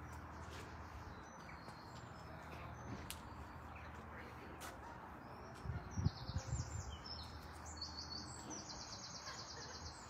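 A small songbird singing: scattered high chirps, then two fast runs of rapidly repeated high notes in the second half, over a low steady rumble. A few low thumps come about six seconds in.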